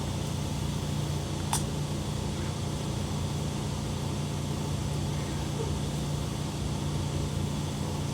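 Steady low hum inside a Chikuho Electric Railway 3000-series articulated tram car, with one sharp click about a second and a half in.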